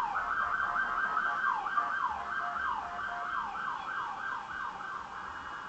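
Police car siren on a fast yelp, its pitch sweeping down over and over, about three times a second, growing a little fainter near the end.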